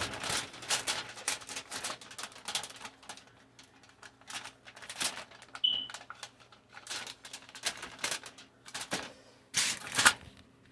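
Irregular crinkling and rustling clicks of hands rolling up a chicken fajita wrap, with a brief high squeak about halfway through.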